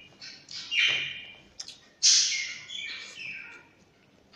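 A bird chirping: a string of short calls, each falling in pitch, that die away near the end.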